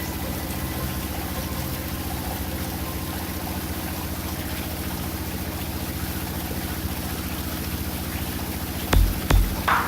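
Motorboat engine running steadily with an even, rapid pulse, and water noise under it. A few heavy low thumps come near the end.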